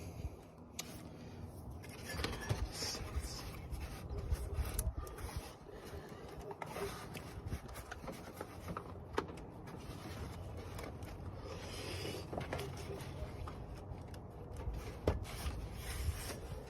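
Rubbing and scraping with scattered sharp clicks of hand tools and plastic clips being worked under the hood, over a low rumble.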